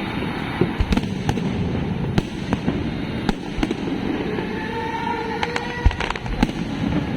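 Fireworks display: a continuous low rumble of bursts, with many sharp cracks scattered throughout.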